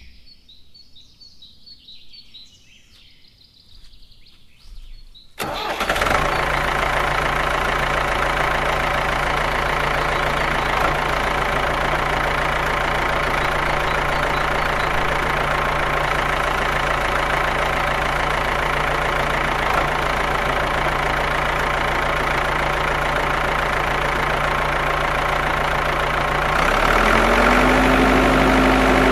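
Faint high chirps, then an engine starts abruptly about five seconds in and runs at a steady idle. Near the end it steps up to a higher, louder speed.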